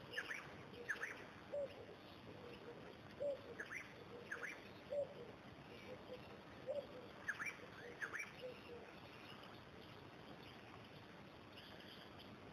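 Faint bird calls: three pairs of short, high chirps, with a lower short note repeating about every second and a half. The calls die away well before the end, leaving faint hiss.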